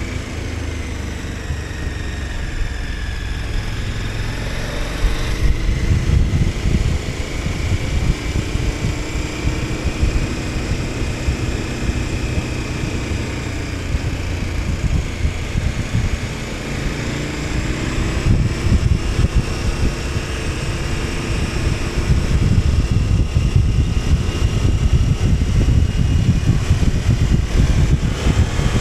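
KTM 1290 Super Adventure S's V-twin engine under way, its pitch rising and falling as the rider works the throttle, with wind buffeting the microphone. The low rumble swells a few seconds in and again near the end.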